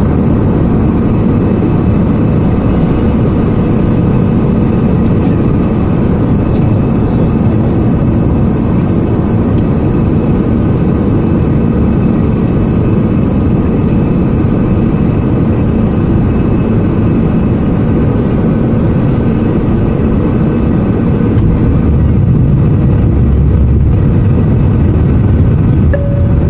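Airliner cabin noise during descent: the steady, loud rush of engines and airflow heard from a passenger seat. Right at the end a cabin chime starts to sound, ahead of the crew's pre-landing announcement.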